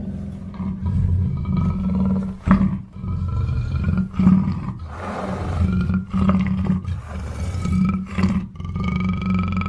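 Black panther vocalising: a continuous run of low, rough, pulsing calls, with sharper loud calls about two and a half, four and eight seconds in.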